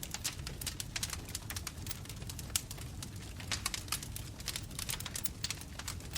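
Bonfire of burning wood crackling, with many sharp irregular pops over a steady low rumble of the flames.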